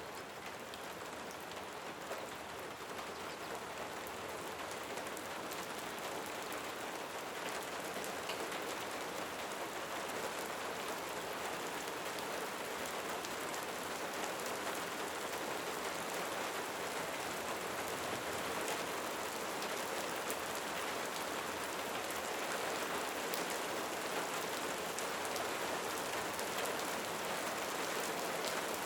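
Steady rain falling in a cenote cave, a dense even hiss with many separate drop hits ticking through it, growing slightly louder over the span.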